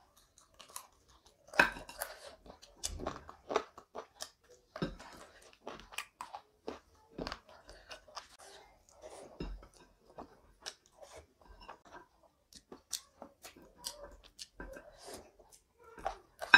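Close-miked chewing of a mouthful of rice and chicken curry eaten by hand: a run of irregular clicks and smacks, a few louder than the rest.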